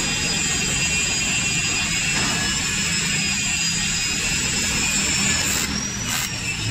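Aluminium welding equipment running: a steady hiss with a constant high whine and a low hum, as a cracked aluminium engine-case stand mount is about to be welded.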